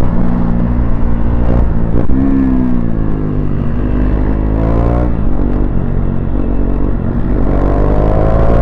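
KTM Duke 390's single-cylinder engine accelerating, its exhaust running with the dB killer removed. The pitch climbs and drops sharply about two and five seconds in, as on upshifts, then climbs steadily near the end.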